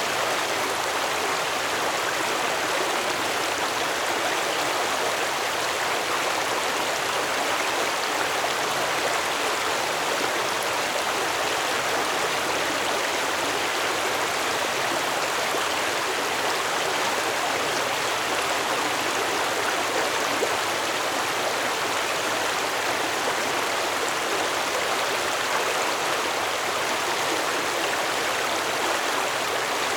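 Stream water flowing steadily over stones, a constant rushing babble with no breaks or single splashes.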